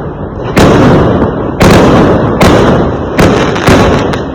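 Fireworks exploding: five loud bangs in quick succession, each dying away in a rumble before the next.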